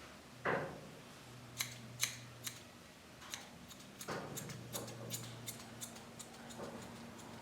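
Grooming shears snipping a dog's hair in a run of quick, irregular snips, with a couple of duller knocks from handling.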